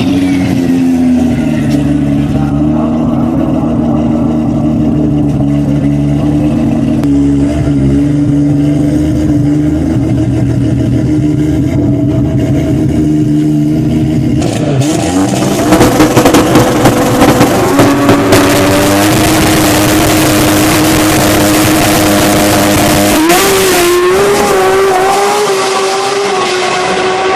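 Toyota Supra MK4's twin-turbo 2JZ straight-six running loud at high, nearly steady revs. About halfway through comes a run of rapid sharp pulses, and near the end the pitch rises briefly.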